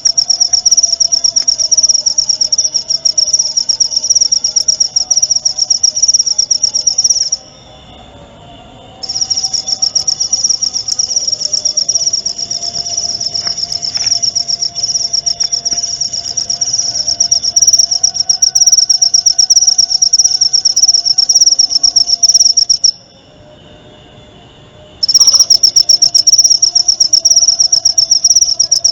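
Cricket chirping in a fast, steady, high-pitched trill that breaks off twice for about two seconds, once about seven seconds in and again about twenty-three seconds in.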